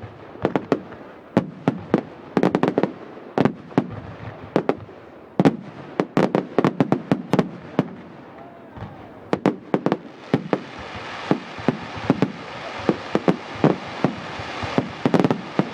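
Fireworks display: dozens of sharp bangs going off in quick, irregular succession, several a second at the busiest moments.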